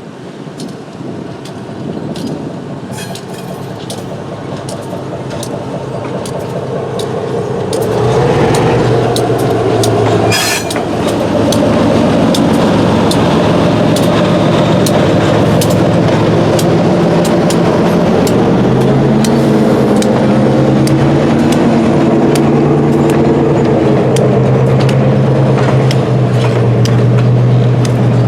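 Fairbanks-Morse H-12-44 diesel switcher locomotive running, its opposed-piston two-stroke diesel growing louder over the first eight seconds, then holding a steady, heavier running note. Sharp clicks come through throughout, and there is a brief hiss about ten seconds in.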